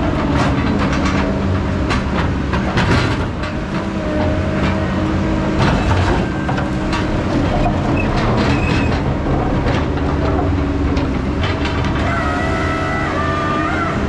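Diesel heavy logging machinery running steadily under load, with repeated metallic clanks and knocks throughout. A high whine comes in near the end.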